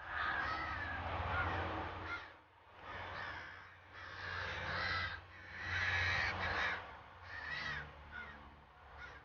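A group of American crows cawing harshly in about six loud, overlapping bursts, the kind of chorus crows raise when mobbing a hawk.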